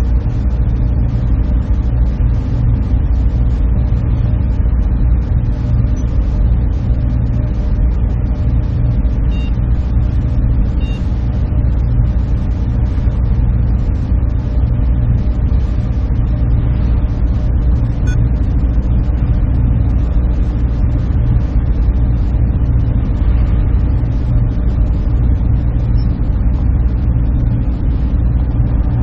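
Server room ambience: a loud, steady machine drone with low hums, unchanging throughout.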